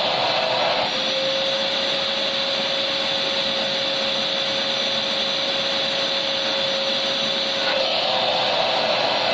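Electric vacuum cleaner running continuously: a steady rushing noise with a motor whine, its tone shifting slightly about a second in and again near the end.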